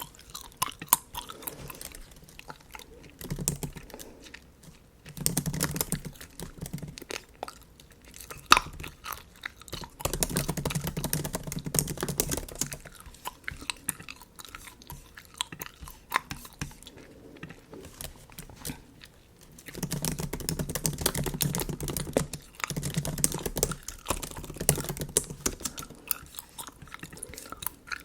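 Bubble gum chewed close to the microphone: many small wet clicks and smacks, with louder stretches of chewing every few seconds.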